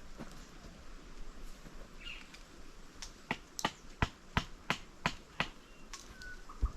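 A run of sharp taps or knocks, about three a second, starting about three seconds in, with a quieter tap earlier on.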